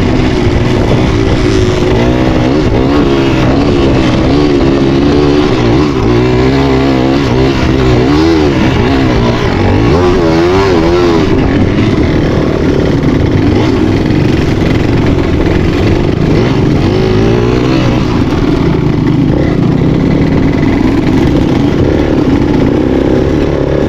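A vehicle engine, likely a motorbike's, running steadily with its pitch wavering up and down as the revs change.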